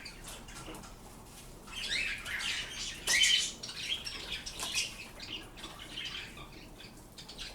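Pet birds calling with a run of short chirps, loudest about three seconds in, then fainter calls.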